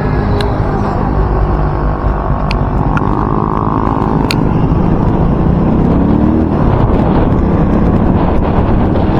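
Wind buffeting a microphone wrapped in electrical tape, a loud steady rumble over a running vehicle engine whose pitch rises twice as it speeds up. The taping has not stopped the wind noise. A few sharp ticks sound in the first half.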